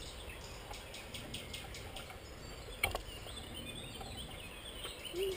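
A bird's rapid series of short high call notes, about half a second in and again near the end, over a low steady rumble of river and wind. A single sharp click just before three seconds in is the loudest sound.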